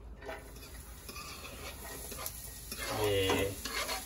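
Chopped onion scraped with a knife off a plastic cutting board into a hot frying pan, with knife scrapes and light knocks on the board and a sizzle building as the onion hits the oil. A short voice sound, about three seconds in, is the loudest part.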